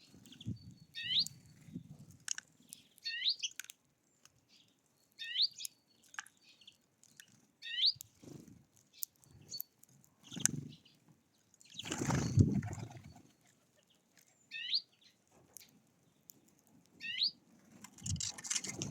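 Small songbirds at a feeder: one bird gives a short falling call, repeated about every two seconds. Between the calls come low bumps and wing flutters, the loudest flutter about twelve seconds in.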